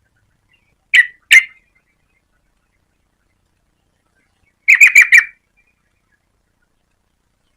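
Yellow-vented bulbul calling: two short, sharp notes about a second in, then a quick run of four notes a few seconds later.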